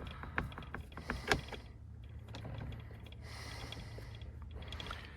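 Light clicks and knocks of hand work on a truck door, with one sharper click just over a second in and a brief scraping about three seconds in, over a steady low hum.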